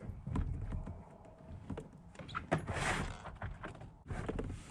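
Scattered knocks and clicks of a landed bass and fishing gear being handled on a kayak, with a short hissing rush about halfway through.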